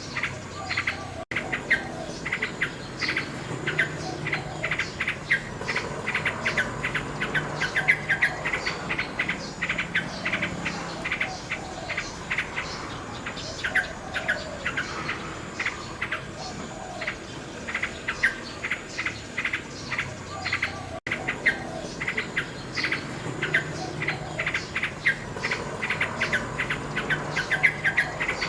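Nightingale singing over a dense, rapid chirping of crickets, with two split-second dropouts in the audio.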